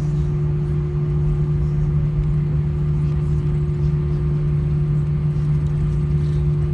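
Steady cabin drone inside an Airbus A320 taxiing on the ground: engines at idle and the air-conditioning hum. It is one unbroken low hum with a couple of fainter steady higher tones over a rumble.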